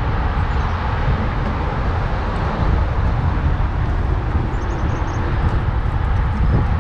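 Steady low rumble of wind on the microphone and tyre noise from a moving mountain bike.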